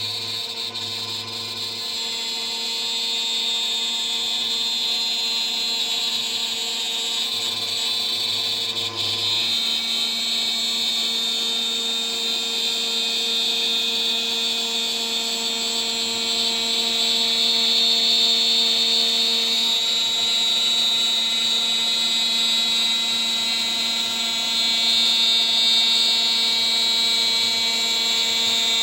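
CNC router spindle running at 14,000 RPM, with a 3 mm three-flute aluminium end mill cutting the part. It makes a steady high whine, and the cutting noise swells and eases as the tool moves along its path.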